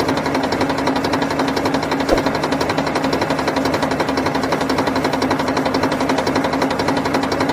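A small motor running steadily with a rapid, even rattle and a low hum, with a single click about two seconds in.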